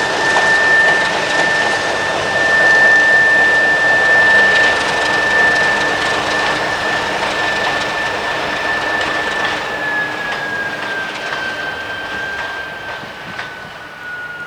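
TEM2 diesel shunting locomotive working while pushing a string of loaded hopper wagons, with a steady high whine over its running. From about ten seconds in, the whine slowly falls in pitch and the sound fades, with a few light knocks near the end.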